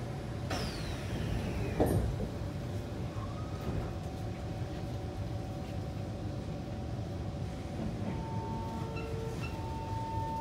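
Kawasaki C151 train's sliding doors closing with a falling slide sound and a firm knock as they shut about two seconds in, then the train's steady rumble. A steady whine from the drive comes in about eight seconds in.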